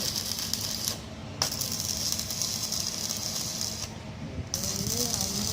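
Electric arc welding: a steady crackling hiss of the arc, broken off twice briefly, about a second in and again near four seconds, with a sharp click as the arc strikes again.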